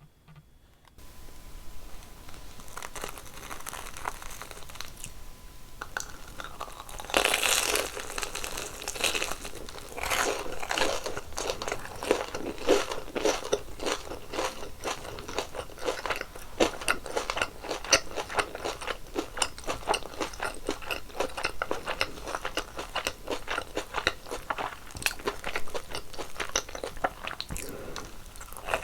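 Close-miked biting and chewing of crispy fried kkwabaegi (Korean twisted doughnuts): crackling crunches start about a second in, a loud bite comes about seven seconds in, and dense crunchy chewing runs on after it.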